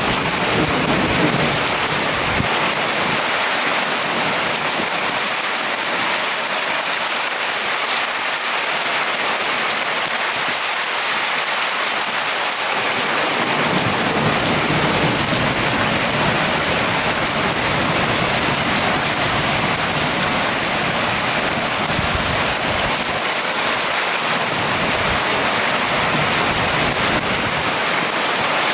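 Heavy rain pouring steadily in a thunderstorm, with low thunder rumbling at the start and again through the middle.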